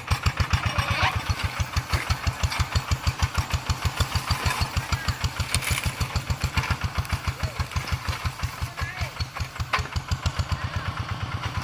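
Two-wheel hand tractor's single-cylinder diesel engine running steadily, chugging evenly at about eight beats a second.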